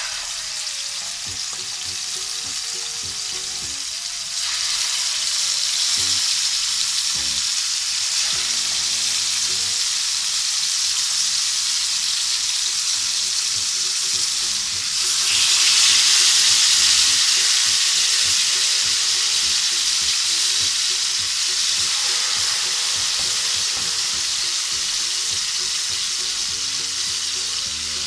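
Marinated chicken pieces sizzling as they fry in a little oil in a worn non-stick pan. The sizzle gets louder about four seconds in and again about halfway through, as more pieces go in or settle in the hot oil.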